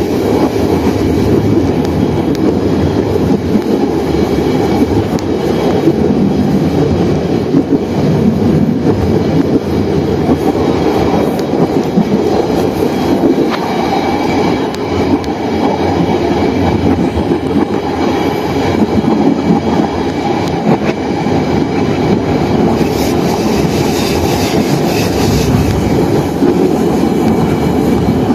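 Steady running noise of a diesel locomotive under way, heard from inside the cab: engine and wheel-on-rail rumble. A few seconds of added high hiss come in about three-quarters of the way through.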